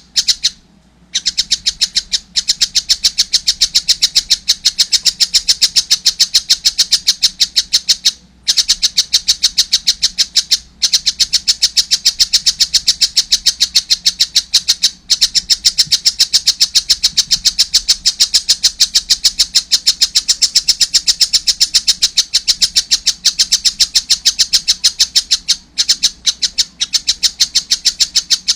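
A young stork-billed kingfisher calling in a fast, unbroken string of short, harsh, high notes, many a second. The string breaks off only for a few brief pauses.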